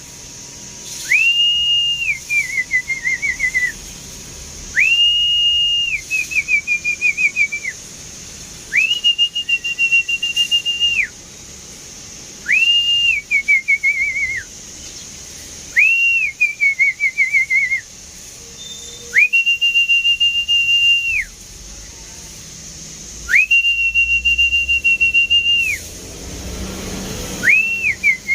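A person whistling one repeated call over and over, about seven times. Each call is a held high note followed by a falling, warbling trill.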